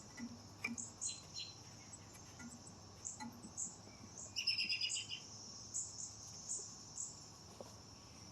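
Steady high-pitched drone of insects such as crickets, with repeated short bird chirps and a brief rapid bird trill about halfway through. A few faint clicks sound in between.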